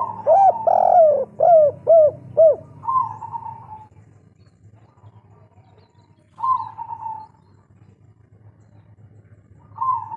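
Spotted dove (tekukur) cooing: a rapid phrase of about five rounded coos in the first two and a half seconds. It is followed by single shorter, higher calls about 3, 6.5 and 10 seconds in.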